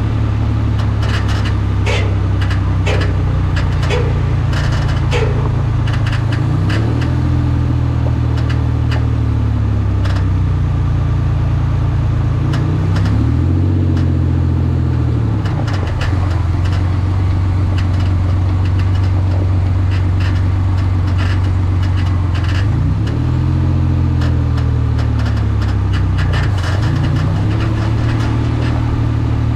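Vehicle engine idling through a Mendeola MD4S transaxle, revved briefly four times. Irregular clicks and knocks come through over the first several seconds. These are the noises the owner is worried about from the transaxle.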